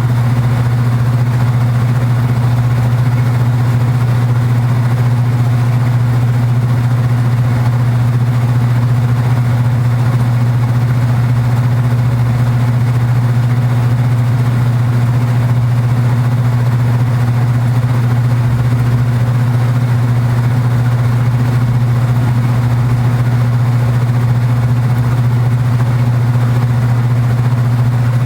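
Kenmore belt-drive portable washing machine running with a steady, loud low hum, its cabinet buzzing along with the motor.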